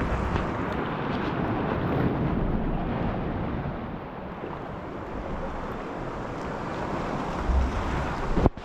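Sea swell and surge washing around a kayak, with wind buffeting the microphone; the wash breaks off briefly near the end.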